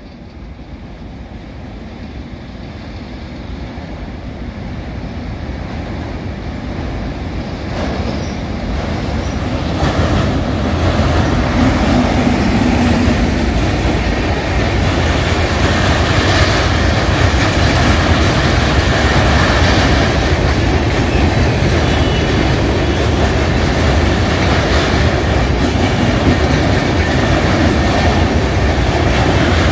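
Indian Railways superfast express passenger train passing close by at a steel truss rail bridge. It grows louder over the first ten seconds as it approaches, then holds a steady, loud rolling rumble with wheels clattering on the track as the coaches go by.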